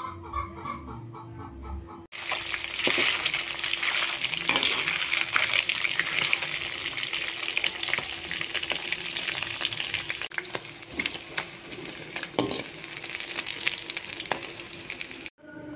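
Chicken pieces frying in hot oil in a wok: a steady crackling sizzle that starts suddenly about two seconds in and cuts off just before the end.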